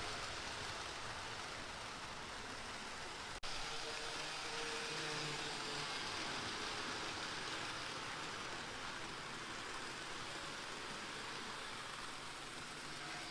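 Model train running on its layout: a steady hiss of wheels on track with a faint wavering hum from the locomotive's small electric motor, broken by a sudden cut about three and a half seconds in.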